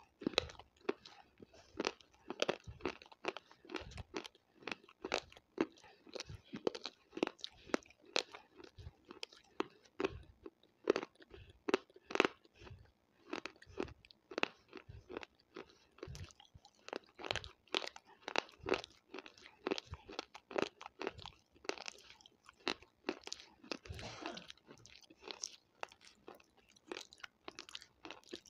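A person chewing crunchy food with their mouth right at the microphone: a rapid, uneven run of crisp crunches.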